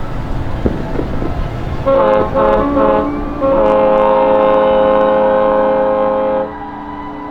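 A ship's horn with several pitches sounding together gives three short blasts, then one long blast of about three seconds. A fainter horn tone carries on after it. A few sharp pops come before the horn.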